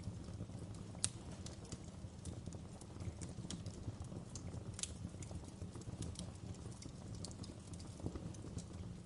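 Wood fire crackling in a fireplace: a steady low rumble of burning with irregular sharp pops and snaps of the logs, the loudest pops about a second in and near the middle.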